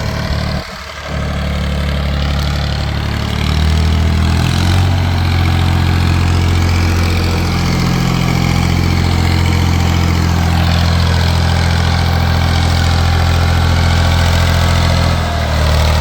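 Tractor engine running steadily, getting louder about four seconds in and staying up.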